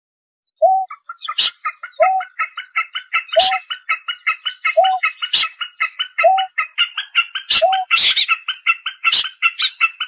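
Bird calls: a short repeated note about every second and a half over a fast, steady run of chipping notes, about five a second, with several sharp clicks among them.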